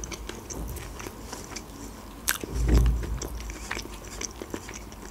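Close-miked chewing of a mouthful of food, with many small wet mouth clicks, a sharper click a little over two seconds in, and a soft low thump just after it.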